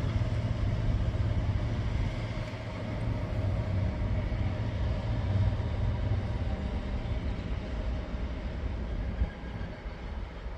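Freight train of tank wagons rolling away: a steady low diesel hum with wagon and rail noise, fading as it goes and dropping off noticeably near the end.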